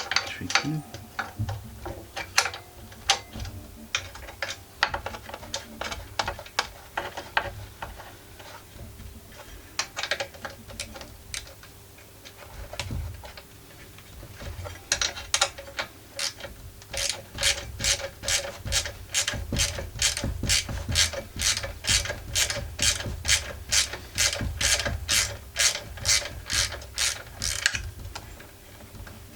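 Ratchet wrench clicking while backing out a muffler screw: scattered, irregular clicks at first, then a steady run of about three clicks a second through the second half that stops near the end.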